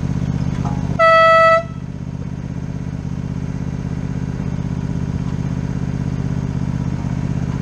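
A small ride-on railroad locomotive sounds one short, loud blast of its horn or whistle about a second in, over a steady, fast-pulsing engine rumble.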